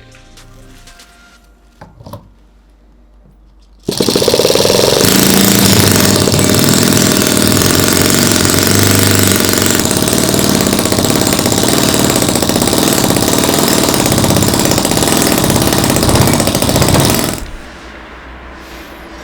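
Miniature four-stroke gasoline model engine starting abruptly about four seconds in and running loudly and steadily for about thirteen seconds, then cutting off suddenly. A few faint clicks come before it starts.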